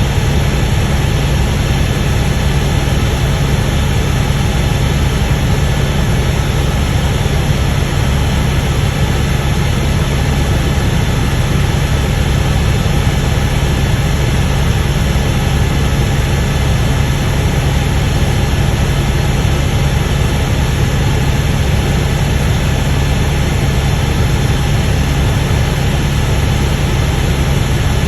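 Helicopter engine and rotor running with a steady, loud drone.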